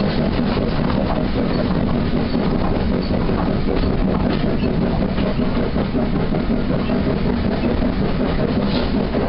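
Steady rumble of a moving train, heard from inside the carriage coupled directly to the Bagnall 0-4-0 saddle tank steam locomotive: wheels running on the rails mixed with the working locomotive, with no separate exhaust beats standing out.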